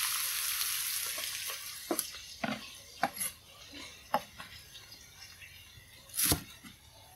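Oyster mushrooms sizzling in oil in a frying pan, fading away over the first couple of seconds. Then a cleaver chopping garlic chives on a wooden cutting board: five or six separate knocks, the loudest near the end.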